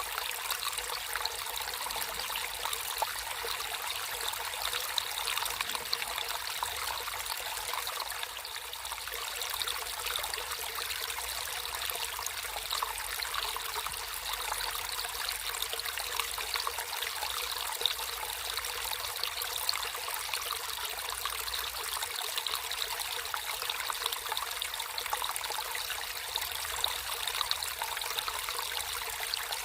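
Shallow water trickling and burbling over stones in a small stream, a steady bright splashing with no deep rush.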